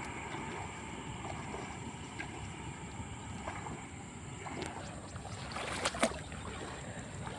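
Water sloshing and splashing around a person wading in a shallow weedy pond, with a couple of sharper splashes near the end. A steady high-pitched whine runs underneath.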